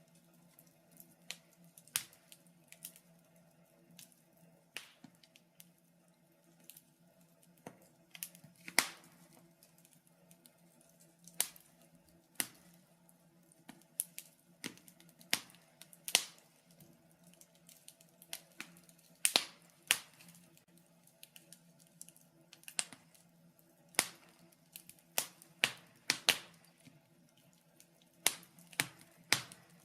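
Wood fire burning in a fireplace, crackling with irregular sharp snaps and pops, sometimes several in quick succession, over a faint steady low hum.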